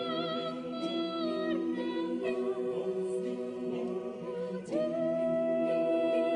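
Mixed choir singing a cappella, holding sustained chords with vibrato and moving to new chords about a second and a half in and again near the end.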